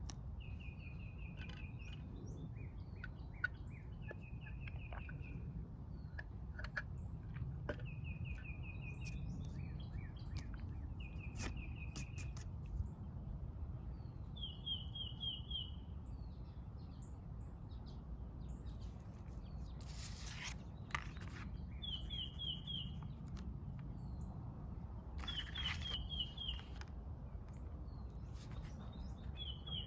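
A songbird repeatedly singing a short, quick trill of about a second, around eight times, every few seconds, over a steady low background rumble.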